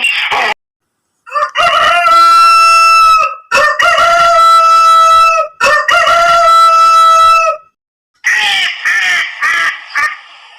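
Rooster crowing three times in a row, each crow about two seconds long at a steady pitch. About a second after the last crow, a different animal starts calling in short, choppy bursts.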